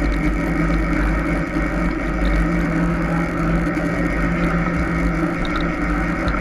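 Steady riding noise from a mountain bike: tyres rolling over the trail and wind rumbling on the camera's microphone, with a few faint, short high chirps now and then.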